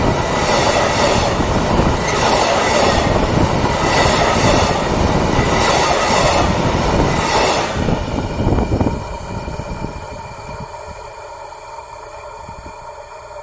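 Train passing close by, its wheels clattering in a loose rhythm over the rail joints. The sound drops away sharply about nine seconds in, leaving a quieter steady hum.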